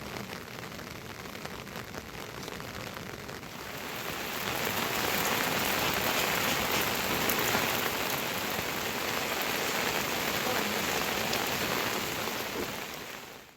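Heavy rain falling steadily, growing louder about four seconds in, then fading and cutting off at the very end.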